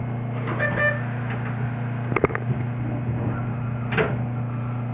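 Steady low hum of an electric train, heard from the driving cab. A few sharp clicks come about two seconds in and again at about four seconds.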